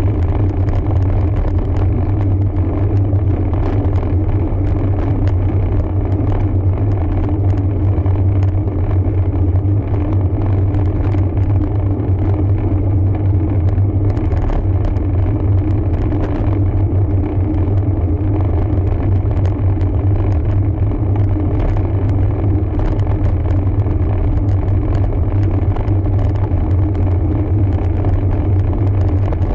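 Steady low rumble of wind and road noise on a camera riding along on a road bike, unbroken throughout.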